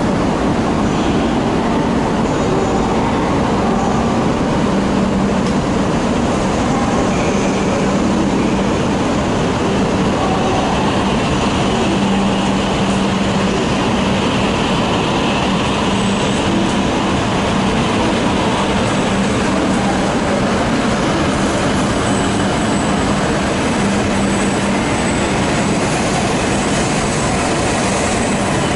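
E5-series shinkansen pulling slowly out of the station on the adjacent track: a steady low hum and rolling rumble, with a faint high whine and some wheel squeal as the cars pass close by.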